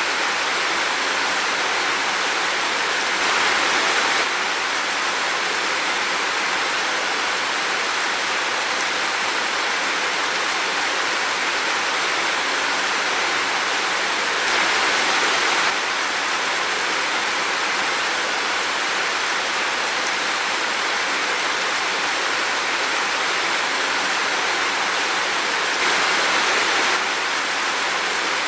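Heavy rain falling steadily, a dense even hiss, with three brief louder swells about eleven seconds apart.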